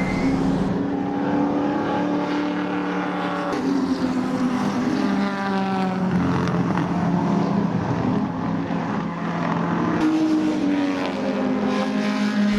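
Historic muscle race cars' engines running at speed on the track, the pitch rising and falling several times as cars change gear and go by.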